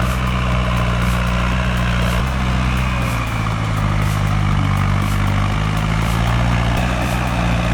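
Heavy truck's diesel engine running steadily under load, its pitch stepping about two and three seconds in.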